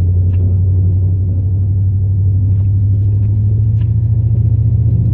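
2002 Chevrolet Silverado's 8.1-litre big-block V8 running under way, a steady low drone heard from inside the cab, its pitch creeping slightly upward as the truck gains a little speed.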